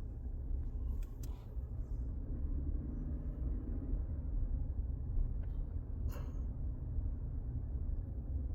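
Steady low rumble of a car heard from inside the cabin, with a couple of faint clicks about a second in and a brief sharper sound about six seconds in.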